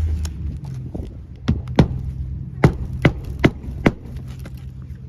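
About six sharp knocks in quick succession through the middle, over a low rumble of wind on the microphone.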